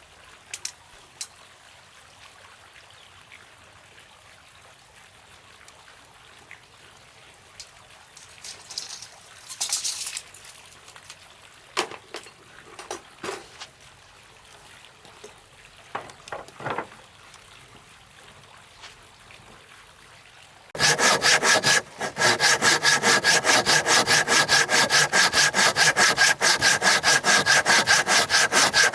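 A few faint knocks and scrapes of wood being handled, then about 21 s in, a hand saw starts cutting wood with fast, even strokes, pausing briefly right after it starts.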